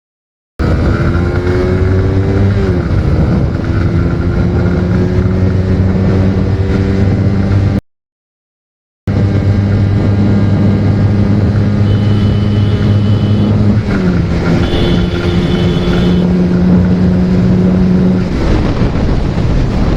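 Suzuki GSX-R motorcycle engine under hard acceleration. Its pitch climbs slowly through each gear and drops at upshifts about three seconds in, about fourteen seconds in and about eighteen seconds in. The sound cuts out completely for a moment at the very start and again about eight seconds in.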